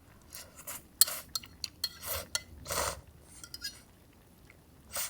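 Utensils clinking and scraping against camp cookware: a string of sharp clicks, with two short swishes about two and three seconds in.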